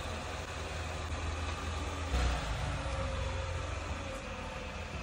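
GMC Acadia SUV's engine running, a steady low rumble that swells briefly about two seconds in.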